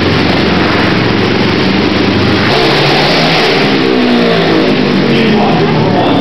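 Several racing ATV quad engines running hard and revving, their pitch rising and falling as they accelerate and back off, in a loud, continuous mix.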